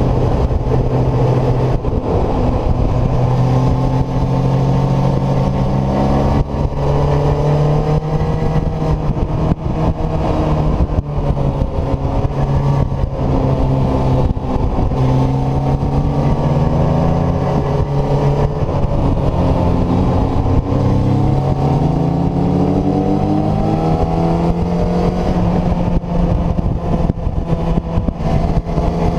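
Kawasaki ZZR600's inline four-cylinder engine under way, its pitch climbing and dropping again and again as the rider accelerates, shifts gears and rolls off, with wind rush over the fairing.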